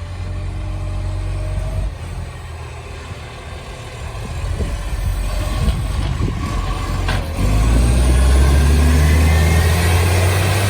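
Garbage truck's diesel engine running, then revving up sharply about seven seconds in and holding a loud roar with a rising whine over it; the roar comes from a massive exhaust leak.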